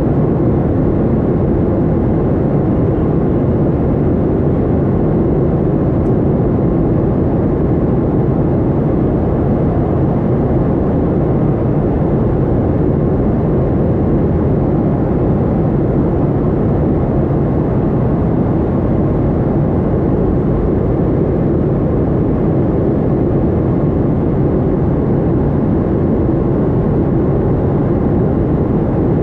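Steady drone of a Boeing 737-800's jet engines and rushing air, heard as dull, even cabin noise.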